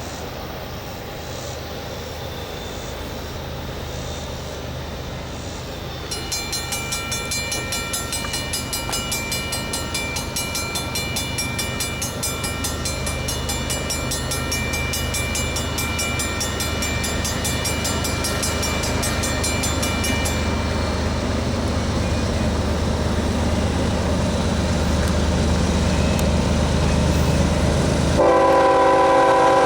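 Kansas City Southern GE ES44AC diesel locomotives leading an intermodal train approach, their engine rumble growing steadily louder. A high, rapidly pulsing ringing sounds from about six seconds in for some fourteen seconds, and the locomotive horn blows near the end.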